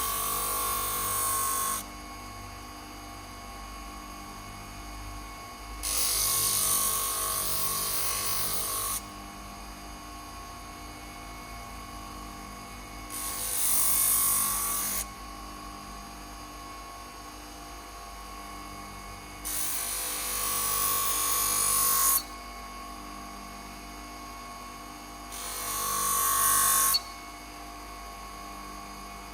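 A power tool running steadily, with a workpiece pressed against it in five passes of two to three seconds each, giving a loud grinding hiss over the motor's hum.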